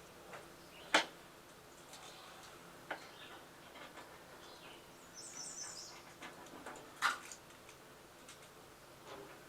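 Quiet background with a few sharp clicks or knocks, about 1, 3 and 7 seconds in. A short, high bird chirp comes around the middle.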